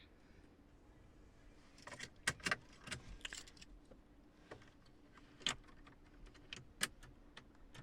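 Mercedes key and keyring handled and clicked into the dashboard ignition slot in place of the keyless-go start button: a string of sharp clicks and key jangling, loudest around two, five and a half and seven seconds in, over a faint steady hum.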